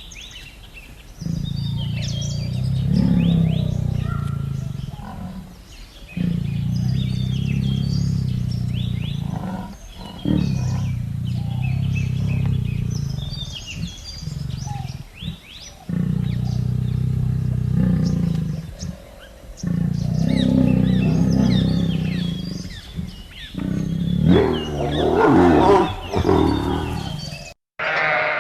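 A big cat giving a series of long, low growling roars, each lasting about three to four seconds with short pauses between them and a louder, rougher one near the end. Birds chirp faintly in the background.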